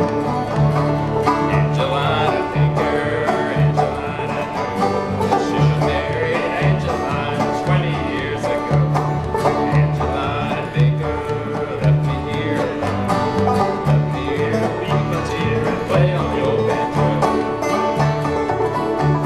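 Banjo, acoustic guitar and bass playing an old-time fiddle tune in bluegrass style: bright banjo picking over guitar and a steady bass line.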